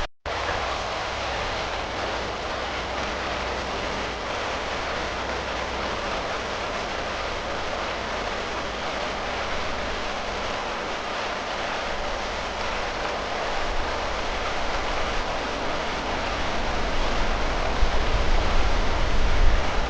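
Steady rushing and splashing of water with a low vehicle rumble beneath, the rumble growing louder over the last few seconds; it starts just after a brief drop-out.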